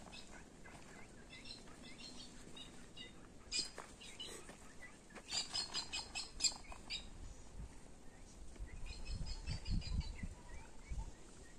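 Small birds chirping in quick runs of high notes, several times over. There are scattered faint clicks, and soft low thumps near the end.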